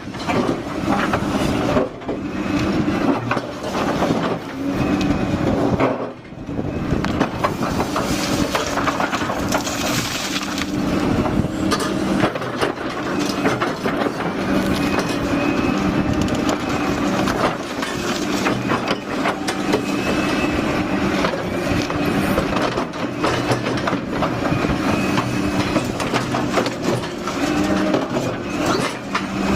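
Liebherr hydraulic excavator working, its diesel engine running steadily under load, with frequent knocks and clanks from the machine and the material it is handling.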